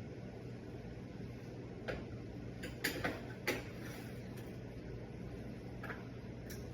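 A few scattered light clicks and taps from a saucepan and utensils being handled on the stove, over a steady low hum.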